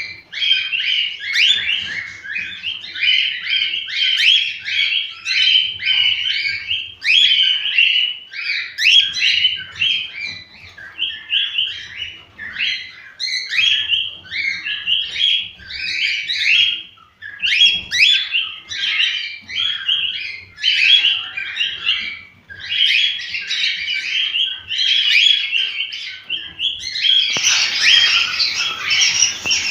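Cockatiels warbling and chirping in a continuous run of short, quick notes. Near the end, louder, harsher squawking calls join in.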